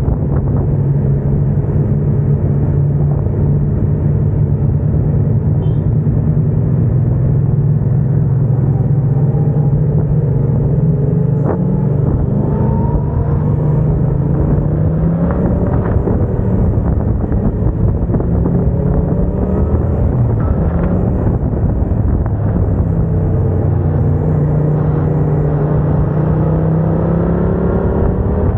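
Yamaha MT-07's 689 cc parallel-twin engine running loud through a MIVV aftermarket exhaust, its pitch climbing several times as the bike accelerates.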